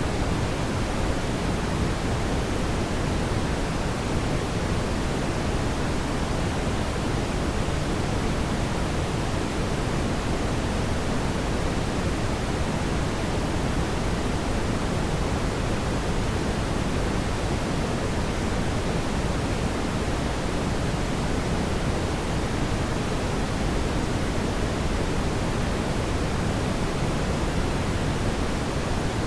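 Steady rushing noise from a fireplace ambience recording, even throughout and heavier in the low end, with no separate crackles or pops.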